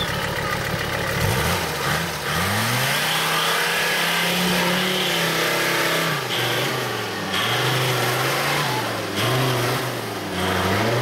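Off-road 4x4's engine revving under load as it climbs a steep bank: the pitch rises about a second in, holds high for several seconds, then surges up and down.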